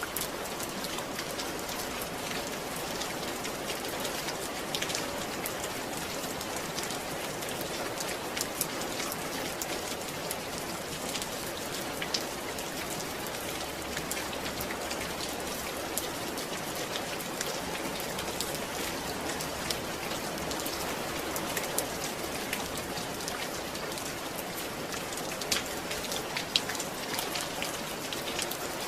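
Steady rain falling, a continuous hiss with many small drop ticks scattered through it and a few louder drips.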